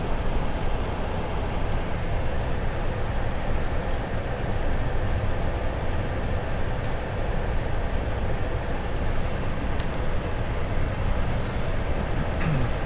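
Steady flight-deck noise of a Boeing 747-400 on approach with flaps extended: a constant rush of air and a low rumble, with a faint click about ten seconds in.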